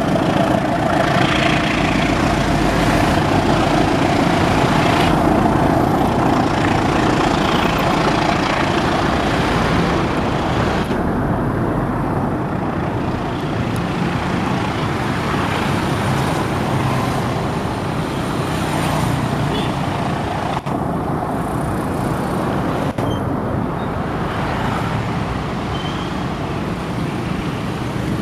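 Loud, steady vehicle noise: a continuous rumble and hiss, with a faint steady tone that fades out over the first ten seconds or so.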